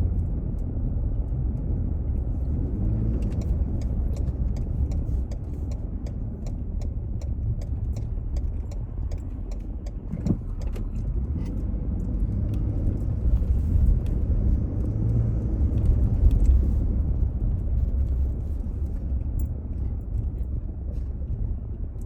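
A car driving, with a steady low engine and road rumble and faint scattered light clicks.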